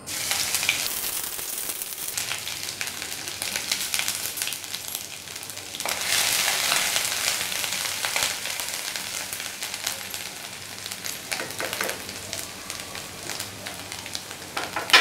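Grated ginger sizzling in hot oil in a kadai, starting suddenly as it hits the oil, with a steel spoon stirring and clicking against the pan.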